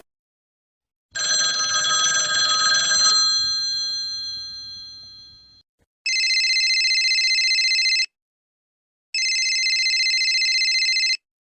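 A bright chime-like ring that fades away over about four seconds. Then a telephone ringing twice, two trilling rings of about two seconds each, about a second apart.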